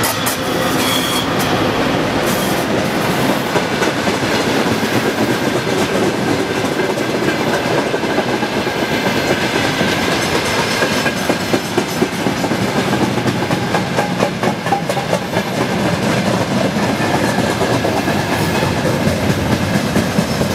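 Freight train of tank cars, timber flatcars and boxcars rolling past close by, a steady rumble with wheels clicking over the rail joints.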